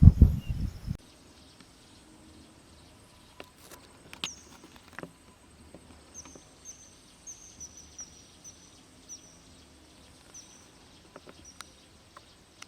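A loud low rumble for the first second, then a quiet outdoor background with scattered faint clicks. From about four seconds in come a dozen or so short high chirps, slightly falling, spaced roughly half a second apart, like a small bird calling.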